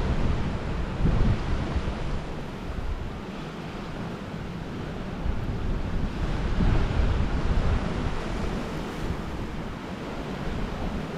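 Wind buffeting the microphone over the noise of ocean surf against the shore, rising and easing in gusts and swells.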